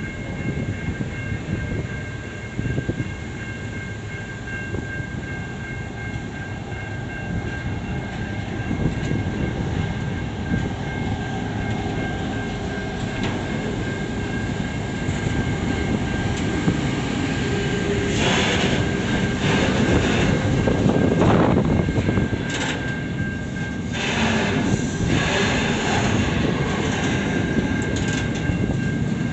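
Container and tank wagons of a long intermodal freight train rolling past close by: a continuous rumble of steel wheels on rail with a thin, steady high ringing. From about two-thirds of the way through come louder clatter and clanks, loudest a little after that.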